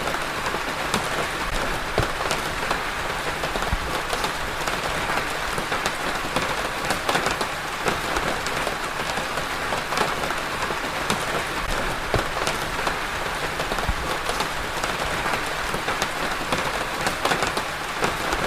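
Steady rain falling on a hard surface, an even hiss dotted with many individual drops tapping.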